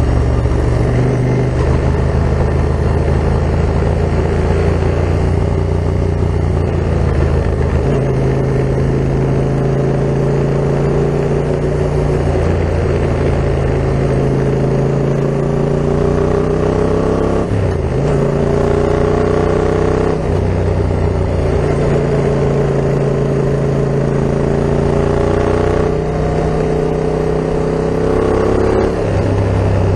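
Yamaha MT-07's parallel-twin engine running through an Akrapovic full carbon exhaust while ridden, steady at first, then climbing in pitch and dropping back sharply a few times in the second half as the gears change.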